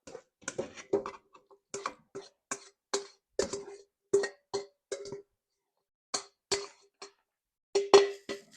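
A utensil knocking and scraping against a metal cooking pot while shredded chicken is mixed into rice: a quick, uneven run of sharp clacks, each with a short ring from the pot, pausing briefly in the middle.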